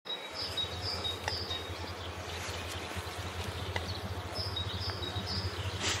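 Quiet outdoor ambience: a steady low hum under a light hiss, with faint, short high chirps in two brief runs, one near the start and one near the end.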